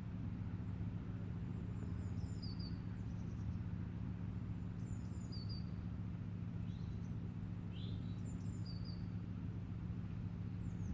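A small songbird singing short high chirping phrases every few seconds, over a steady low hum.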